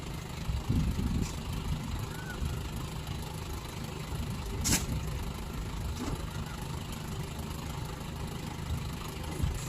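Lorry engine running steadily at idle, with one sharp clank about halfway through.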